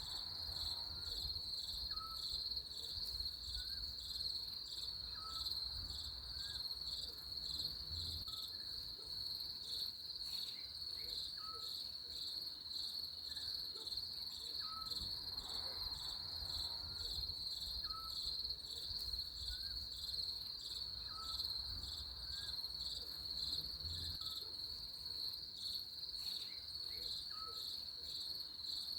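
Crickets trilling in one steady, unbroken high-pitched chorus. Underneath, a faint short note repeats about once a second, along with a low rumble.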